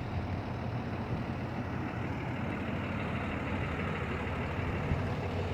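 A vehicle engine running steadily, a low even rumble with no change in speed.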